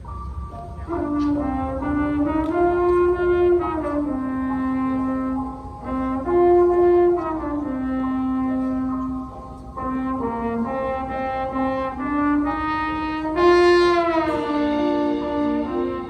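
A high school winter winds ensemble, led by brass, plays slow sustained chords in phrases. There are brief breaks about six and ten seconds in, and the whole chord bends downward in pitch about fourteen seconds in.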